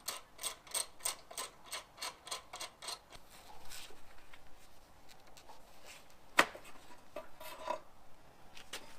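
Ratchet wrench clicking quickly, about four or five clicks a second for the first three seconds, then fainter scraping and one sharp metallic knock about six and a half seconds in.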